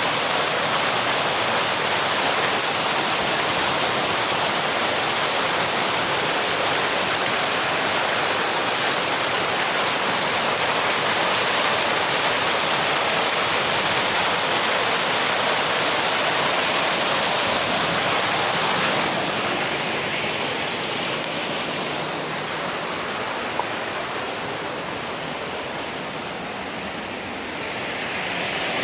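Rushing water of a mountain waterfall: a steady loud rush that grows quieter and duller for several seconds near the end, then comes back up.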